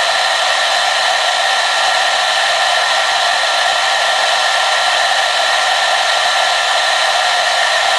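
Hair dryer running steadily on one setting: a constant rush of air with a fixed whine from the motor and fan, unchanging throughout.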